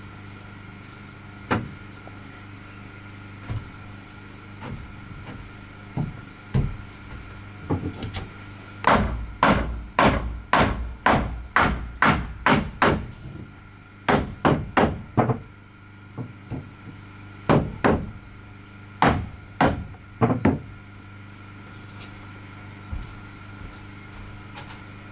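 Hammer blows on wood: a few scattered knocks, then runs of strikes at about two a second through the middle, with a steady low hum underneath.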